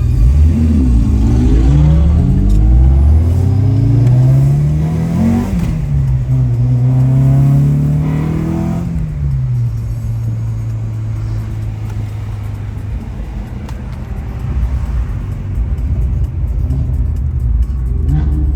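Car engine accelerating hard: its pitch climbs, drops at a gear change about five seconds in, climbs again, then falls away about nine seconds in. A steady low music bed runs underneath.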